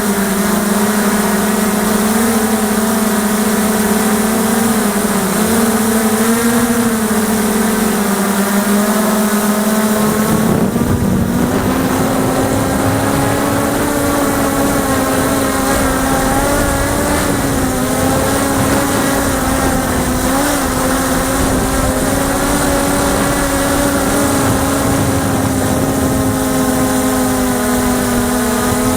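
Small X8 coaxial multicopter's eight electric motors and propellers droning in flight, the pitch wavering up and down. About ten seconds in, the pitch steps up slightly and a low rumble of wind joins underneath.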